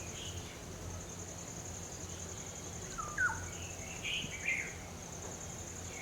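Steady, high-pitched insect trill with short bird calls over it: a quick sweeping call about three seconds in and a few chirps around four and a half seconds.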